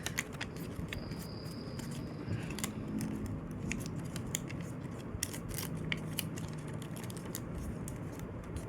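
A sheet of paper being folded and creased by hand: scattered crisp clicks and rustles of the paper.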